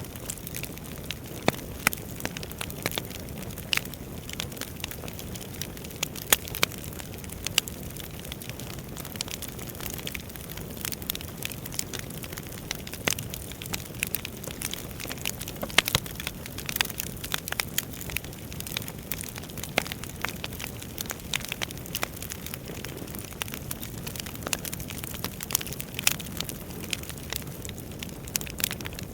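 Wood fire burning in a fireplace: a steady low rumble of flames with many sharp, irregular crackles and pops throughout.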